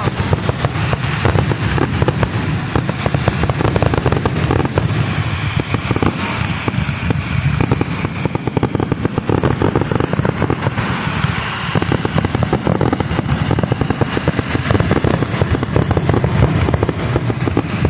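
Fireworks going off in a dense, continuous barrage: many rapid bangs and crackles overlapping, with no pause.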